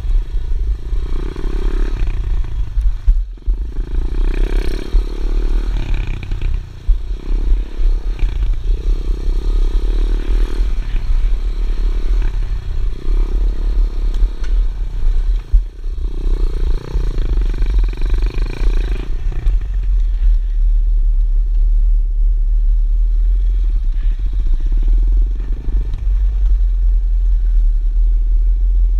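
Pit bike engine running under throttle that rises and eases every second or two, with heavy wind rumble on the microphone. About two-thirds of the way through it settles to a steadier, duller note.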